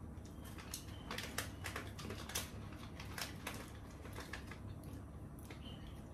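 Crunching as someone bites and chews crispy biscuit snack sticks: a run of irregular crisp clicks, busiest in the first half, over a faint steady low hum.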